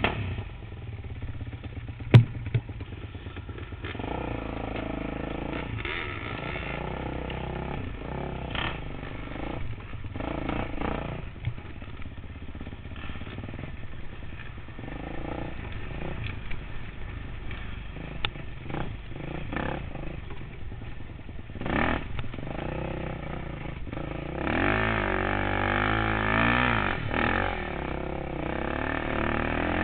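Dirt bike engine running and being revved, its pitch rising and falling, with the strongest revving about 25 seconds in. A sharp click sounds about two seconds in.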